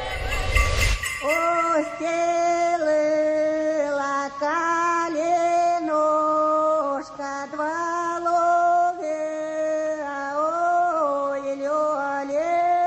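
A woman's voice singing a slow melody alone, in long held notes that step up and down, after a short burst of noise at the start.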